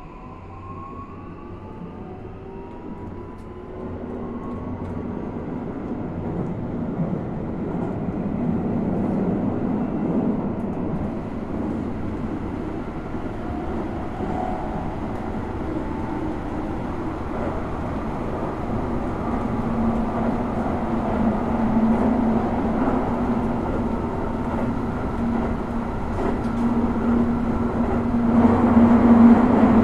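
Toei 5500-series train heard from inside a passenger car, its traction motors whining and rising in pitch over the first few seconds as it accelerates away from a station. Wheel and track running noise then builds steadily, with a steady low hum coming in past the halfway point and the loudest running near the end.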